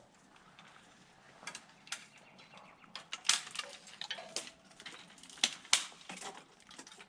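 A string of irregular sharp clicks and knocks, with the loudest ones a little past the middle.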